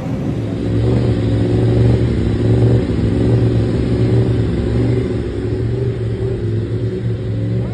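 Endurance superbike engine running at a steady fast idle, slightly louder from about a second in.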